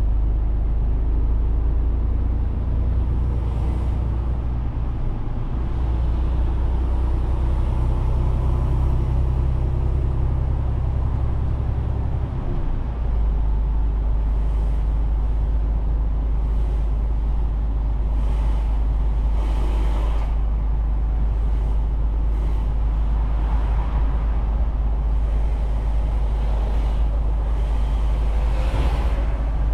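Mercedes-Benz Actros truck driving on the road: steady engine and road noise. The engine tone changes about five seconds in and again about twelve seconds in.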